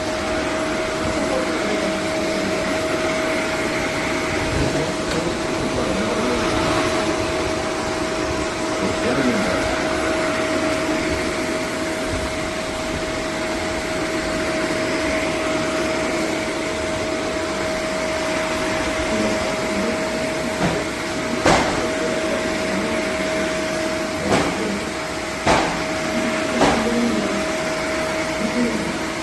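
Upright vacuum cleaner running steadily, its motor giving a constant whine as it is worked over the floor. Four sharp clicks or knocks come in the last third.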